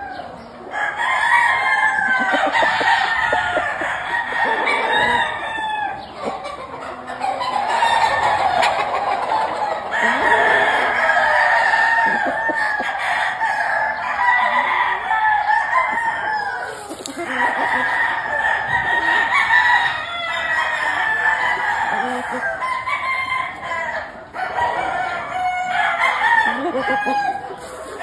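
Many gamefowl roosters crowing over one another, long calls following each other with hardly a break, with some clucking mixed in.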